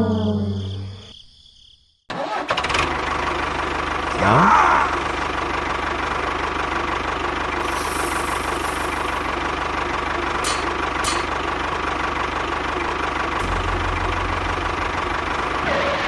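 An engine starts about two seconds in and runs steadily, with a brief rising sweep a couple of seconds later. Just before it, music fades out into a moment of silence.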